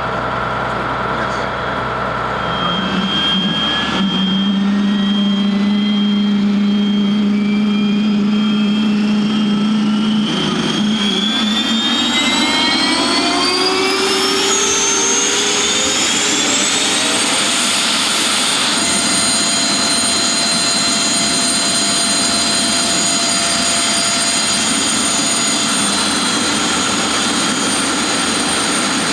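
Avro Vulcan XM655's Rolls-Royce Olympus turbojets spooling up during engine start: several whines climb in pitch together for about fifteen seconds, then level off into a steady high whine as the engines settle.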